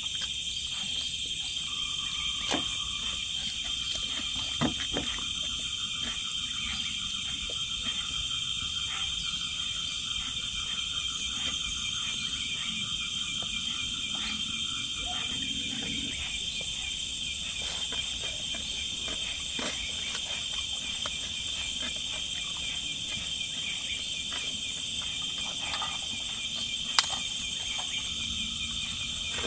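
Steady, shrill chorus of insects, with a fainter second buzzing tone that stops about halfway through. A few sharp clicks or knocks come through, the loudest near the end.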